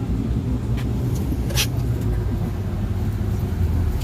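Scania Citywide natural-gas city bus running, a steady low drone, with a brief hiss about one and a half seconds in.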